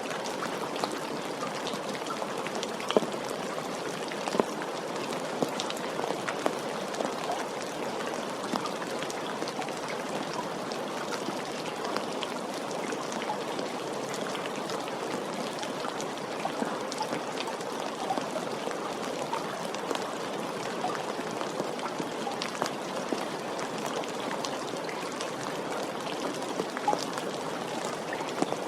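Steady rain falling, with the patter of individual drops spattering on a surface and a few louder drips standing out.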